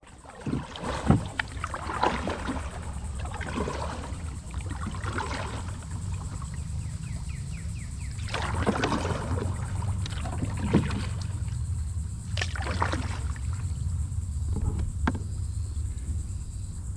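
Kayak paddle blades dipping and splashing in the water, a stroke every second or two with uneven spacing, over a steady low rumble.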